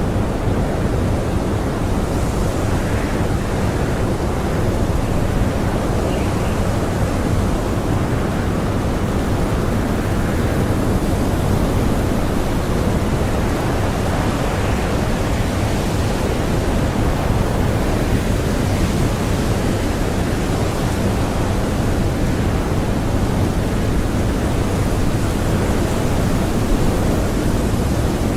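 Strong blizzard wind howling: a steady, dense rush of noise with gusts that swell and ease now and then.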